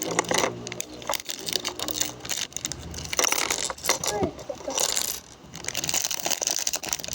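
Small plastic Lego bricks clattering, many quick irregular clicks as loose pieces are handled and tipped out.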